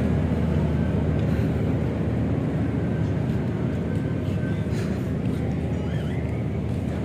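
Generator set running steadily, a constant low engine drone.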